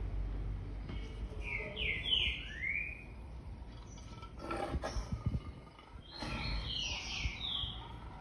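Bird chirping in two quick runs of sweeping chirps, about a second and a half in and again about six seconds in, with a few soft knocks between them.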